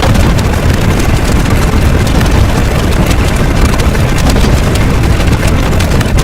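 Loud, steady low rumble with a crackling hiss over it.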